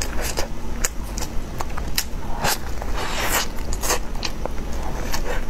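Close-miked chewing and biting of a large homemade steamed stuffed bun (baozi), with irregular wet mouth clicks and smacks.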